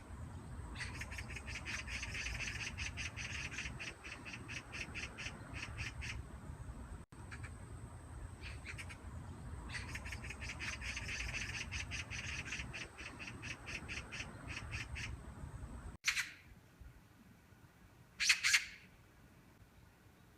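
Magpie giving its rapid chattering rattle, a fast run of harsh clacking notes, in two long bouts. These are followed by two single harsh calls a couple of seconds apart.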